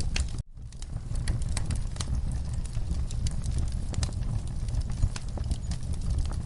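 Wood fire crackling in a fireplace: a steady low rumble of flames with frequent sharp, irregular pops. The sound cuts out briefly about half a second in, then picks up again.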